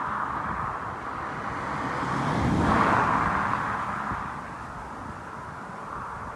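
A car passing by on a road, its tyre and engine noise swelling to loudest about three seconds in and then fading, over a steady background hiss.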